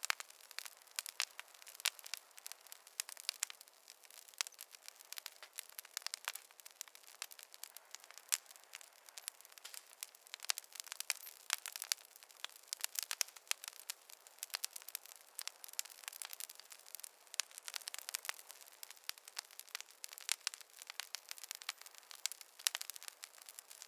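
Wood campfire crackling: a steady stream of irregular sharp pops and snaps over a faint hiss.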